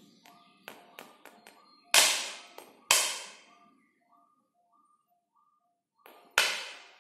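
Tuning fork struck on a rubber pad three times: about two seconds in, a second later, and near the end. Each strike is a sharp hit that fades over about a second, with a few lighter taps before the first.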